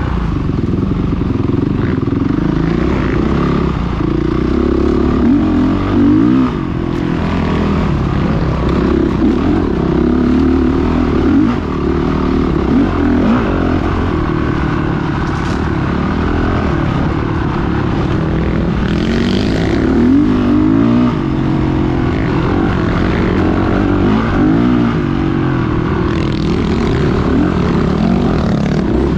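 Off-road dirt bike engine running continuously, its note rising and falling with the throttle.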